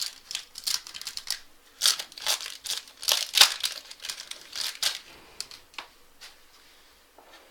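A trading card pack's wrapper being torn open and crinkled, in irregular bursts of crackling that thin to a few light clicks after about five seconds.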